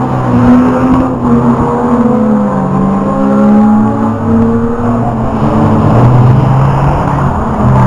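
Engines of rear-wheel-drive banger racing cars revving hard as they drive through a bend, rising and falling in pitch, with more than one engine heard at once.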